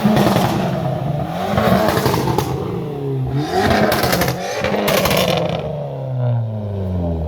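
A car engine revved hard several times, its pitch climbing and falling with each blip, with a few sharp cracks about halfway through.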